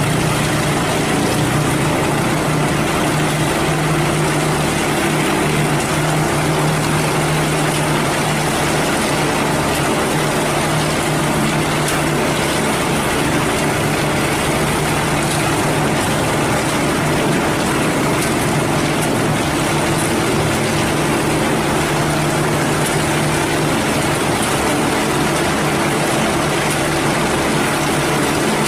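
Heavy diesel engine of a cement mixer truck running at a steady, unchanging speed with a low, even hum.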